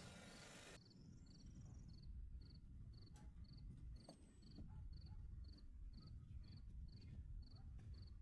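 Faint cricket chirping steadily, about three short high chirps a second, over a low rumble. A hiss cuts off suddenly about a second in.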